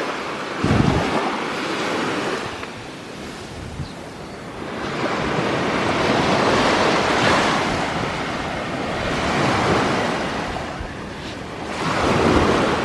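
Waves breaking and washing up the beach, the surf swelling and easing every few seconds, with wind buffeting the microphone.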